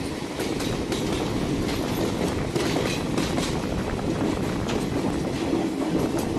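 Passenger train running along the track: a steady rumble of wheels on rails with irregular sharp clicks as the wheels pass over rail joints.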